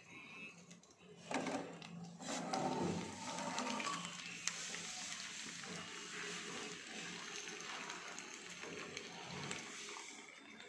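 A handvo (savoury lentil-and-rice cake) is slid from a steel plate into a pan of hot oil and sesame seeds, landing with a clatter a little over a second in. It then sizzles steadily as the underside fries.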